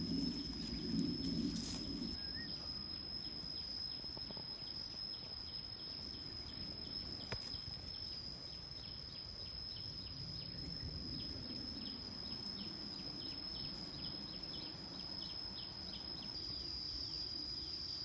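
Insects shrilling in the forest: a steady high-pitched drone with many quick short chirps running through it. A low, muffled rumble sits underneath, strongest in the first couple of seconds.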